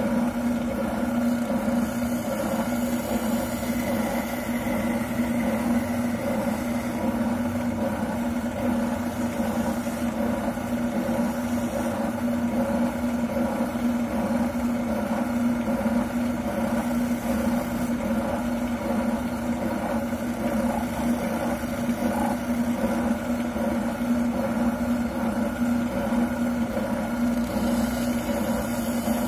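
Wilton oscillating sander running steadily with an even hum while a buttplate is held against it and sanded down.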